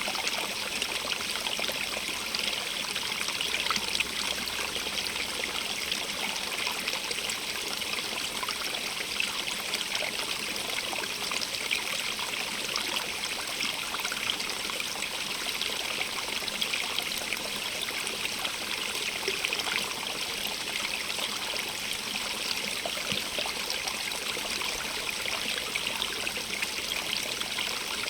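A stream running steadily, a dense, even hiss of flowing and trickling water with fine splashing detail.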